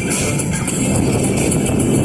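Strong wind buffeting the microphone, a steady rumbling rush, with background music.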